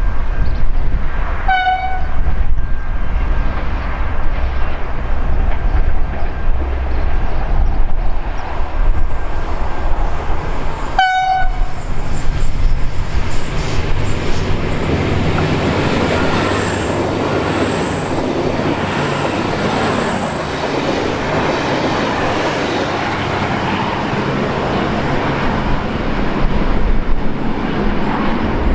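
V/Line passenger train sounding its horn in two short blasts about ten seconds apart, then running through the station with a long, steady rush of wheel and rail noise.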